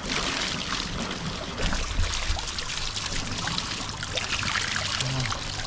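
Water running and trickling steadily, as from a spout or flowing spring water.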